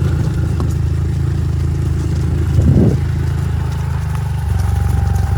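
A motor vehicle engine running steadily, its note shifting about four and a half seconds in, with a short, louder sound near the middle.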